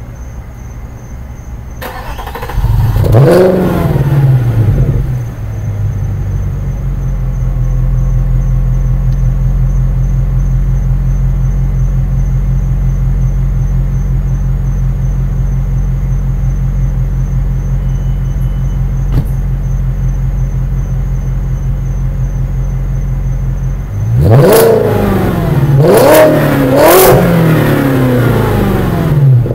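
Volkswagen Passat W8's 4.0-litre W8 engine through a muffler-delete exhaust, straight pipes with the stock resonator still in place. It starts about two seconds in, flares up in pitch and settles to a steady idle, then is revved three times near the end.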